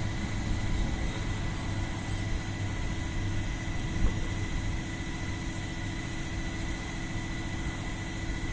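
Air Tractor AT-502's Pratt & Whitney PT6A turboprop running at takeoff power, a steady engine noise with a thin high whine. It grows slightly fainter over the second half.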